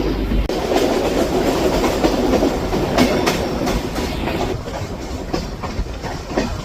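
Kolkata suburban local train running on the track, a steady rattling rumble with the wheels clacking over rail joints, several sharp clacks about three seconds in.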